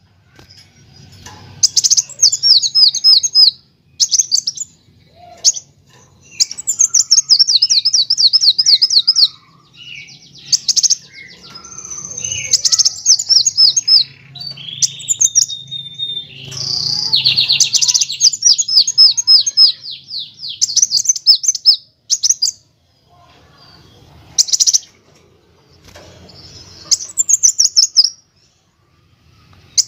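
Kolibri wulung, a sunbird, singing in bursts of fast, high trills and sweeping chirps, with a short held whistle about halfway through, separated by brief pauses.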